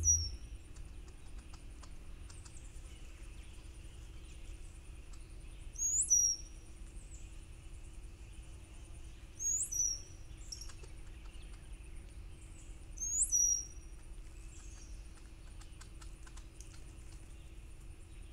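A small songbird giving a very high call that sweeps sharply up and then drops, four times, the last three about three and a half seconds apart, with a few faint chips between.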